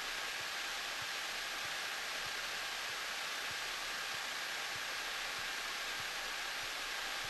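Steady, even hiss of Cessna 172 cockpit noise with the engine running while taxiing, with a faint steady high tone over it.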